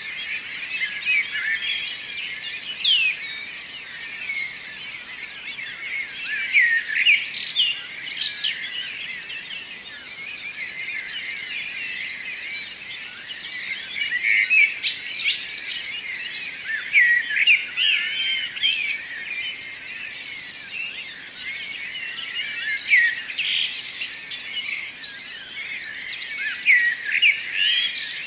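Many birds singing and chirping at once in a morning dawn chorus: overlapping high, quick song phrases and chirps.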